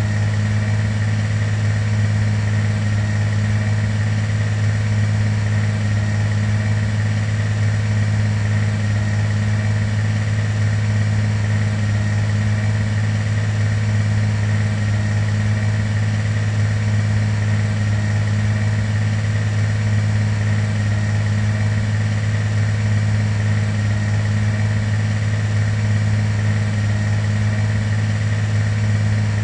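Steady, loud airliner cabin drone: the jet engines and airflow heard from inside the passenger cabin, a deep hum with a faint steady high tone over a hiss.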